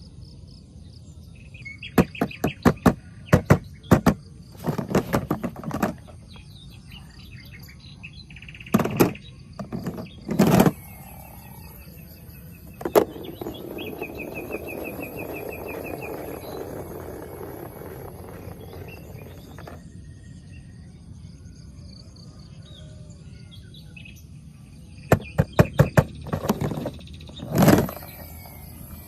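Small diecast toy cars clicking and knocking in quick clusters, with a steady hiss for several seconds in the middle. Birds chirp in the background.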